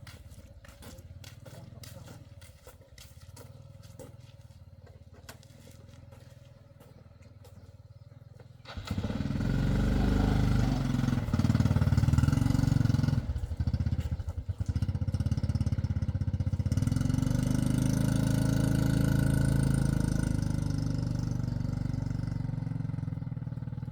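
Heavy diesel machine's engine running low and quietly, then revving up sharply about nine seconds in and staying loud, with a brief dip in the middle.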